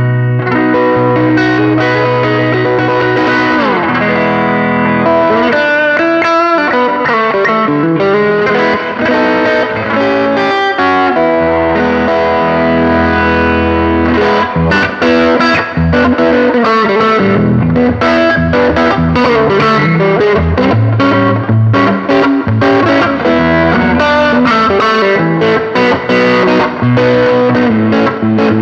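1993 Mexican-made Squier Stratocaster electric guitar played through distortion: a continuous lead passage of sustained notes, with a long downward slide a few seconds in and fast picked runs.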